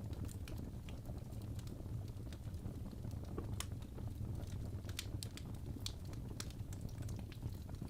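Wood fire crackling in a fireplace: a steady low rumble of burning with irregular snaps and pops scattered throughout.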